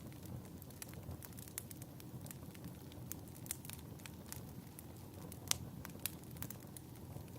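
Wood fire crackling in a fireplace: a steady low rumble with frequent sharp pops at uneven intervals, the loudest pop about five and a half seconds in.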